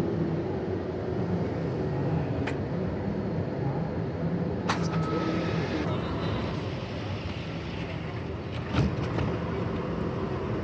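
Steady low mechanical rumble of a vehicle running at rest, with a few sharp clicks and one louder knock near the end.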